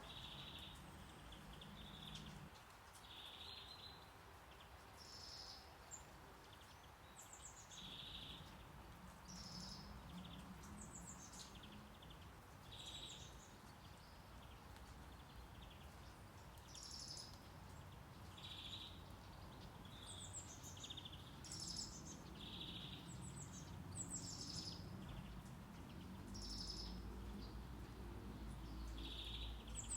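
Birds singing, many short chirps and trills repeating, over a faint steady hiss of brown noise.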